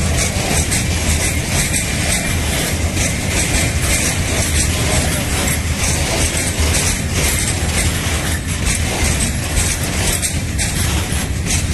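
Freight train being shunted: locomotive and goods wagons moving along the track with loud, steady running and rolling noise and a constant low hum.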